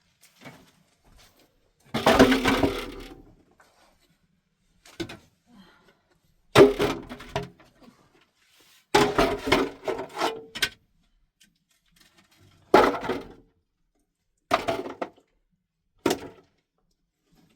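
Irregular knocks and clatters of hard objects being handled or dropped, in separate bursts: a long clatter about two seconds in, a run of quick strokes in the middle, then three short single knocks near the end.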